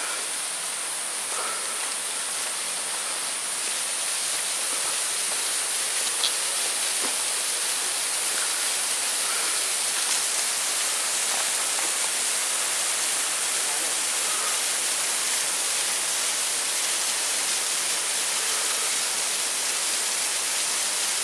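Steady rush of water from a small waterfall and its stream, running evenly throughout, with a single faint click about six seconds in.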